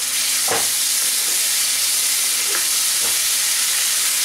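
Tomato, spices and ginger paste sizzling in hot oil in a metal kadai while a spatula stirs, knocking or scraping against the pan a few times.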